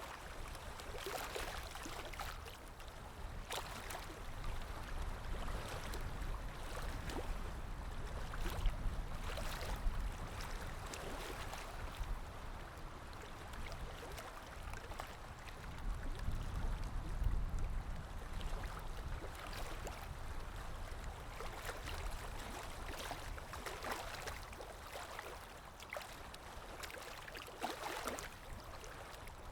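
Calm waves lapping, with many small splashes and a low swell that rises about eight seconds in and again around seventeen seconds.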